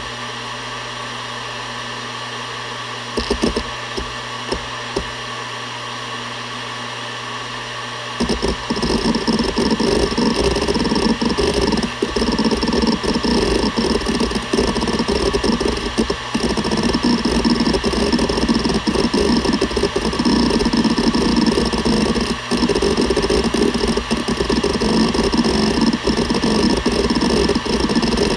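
Seagate Barracuda ES.2 (ST31000340NS) 7200 rpm hard drive spinning with a steady hum and a few separate head-seek clicks. About eight seconds in it breaks into continuous rapid seeking, a dense irregular rattle of the actuator arm that is much louder than the hum.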